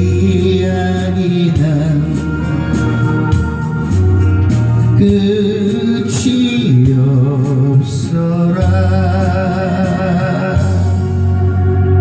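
A man singing a slow Korean ballad in long, wavering held notes over keyboard accompaniment, with a regular hi-hat beat that stops near the end.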